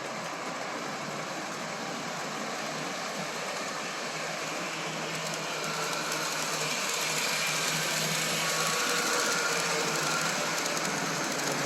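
Electric model trains (a Williams cab forward and a New York Central locomotive) running on the layout's track: a steady whir of motors and a rattle of wheels on the rails, growing louder about six seconds in.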